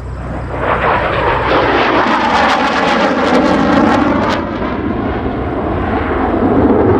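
F-16 fighter jet flying past, its jet engine roar swelling about a second in, with a sweeping, falling tone as it goes by, then settling into a lower rumble.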